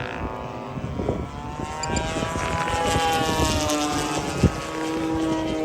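Gas engines of large radio-controlled warbird models racing, several droning tones sliding slowly up and down in pitch as the planes fly past. A single short knock comes late on.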